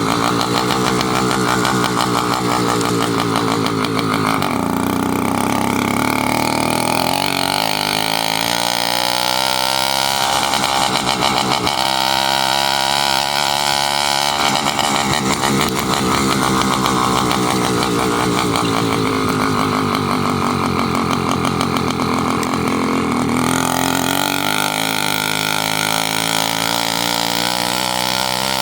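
Motorized bicycle's small engine running while riding, its pitch falling and rising several times as the throttle is eased and opened.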